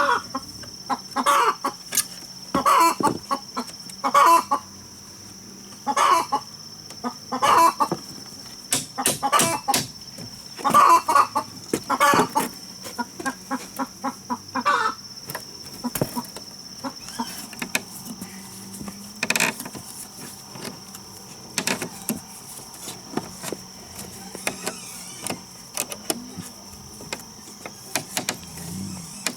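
Chickens clucking, a string of short calls through the first half that thin out later, over a steady high insect drone. Scattered sharp knocks run throughout.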